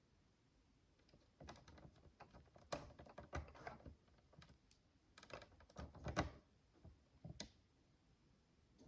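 Tiny plastic micro building bricks clicking as they are handled. There are two runs of quick, light clicks, then one more click near the end.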